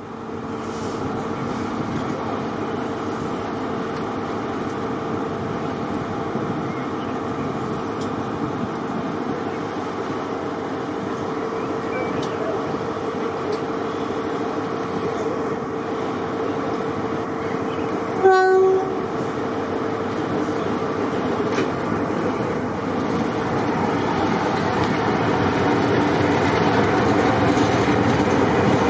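Diesel locomotive running steadily, with one short horn blast about eighteen seconds in; the engine noise grows a little louder near the end.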